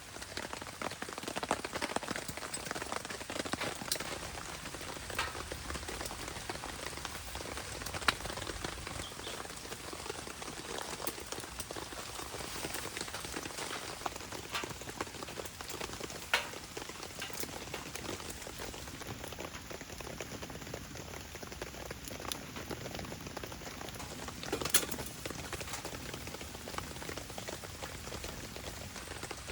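Steady rain falling, with a few louder single drops or sharp ticks now and then.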